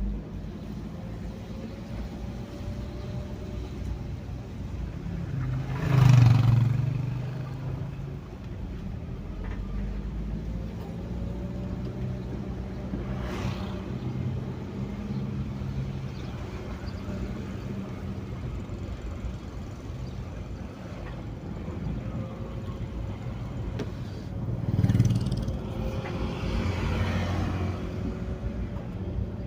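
Motor vehicles passing on a road in the rain: a steady low engine hum over a light hiss, with a loud pass about six seconds in and another near the end.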